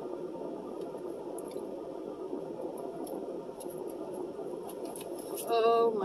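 Close-up chewing and soft squishy mouth sounds while eating fried seafood, with small clicks of a plastic fork against a foam takeout box, over a steady hum in a car cabin. A short hummed vocal sound comes near the end.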